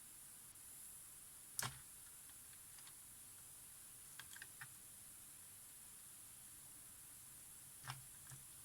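Near silence with a steady hiss, broken by a sharp click about a second and a half in, a few faint ticks around four seconds, and another click near the end: small hand-work sounds at a workbench.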